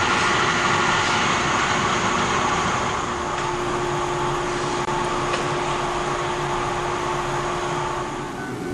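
Old-type JNR Class 73 electric train making a steady mechanical noise, with a constant hum that fades out near the end.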